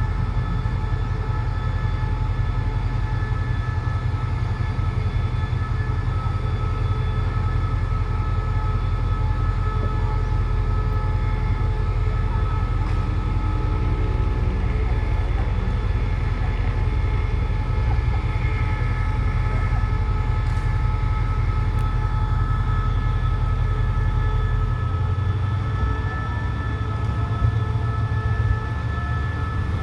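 CRRC Qishuyan CDA5B1 diesel-electric locomotive running while the train stands: a steady low engine rumble with steady whining tones above it. About 25 seconds in the engine note changes.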